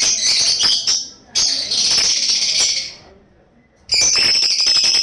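Bird giving harsh, rasping calls in three bouts of about a second each, the middle one longest, with short pauses between.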